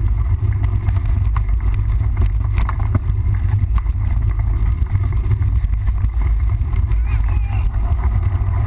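Wind buffeting the microphone as a mountain bike is ridden along a trail, with short knocks and rattles from the bike over bumps. A voice is faintly heard near the end.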